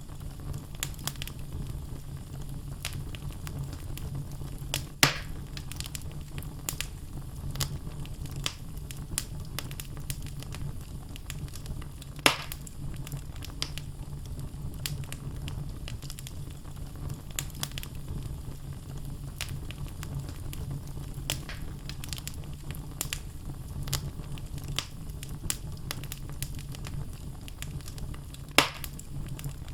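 Wood fire in a fireplace crackling: a steady low rumble of flames with constant small crackles from the burning logs, and three sharp, much louder pops, about 5 seconds in, about 12 seconds in and near the end.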